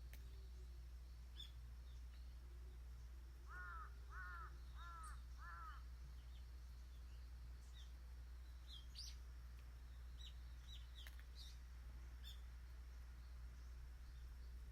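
A crow cawing four times in quick succession a few seconds in, then faint short high chirps of small birds, over a steady low hum.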